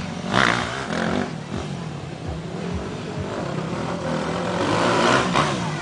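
Motocross/enduro dirt bike engines running and revving, their pitch rising and falling, with a louder rush about half a second in and again near the end.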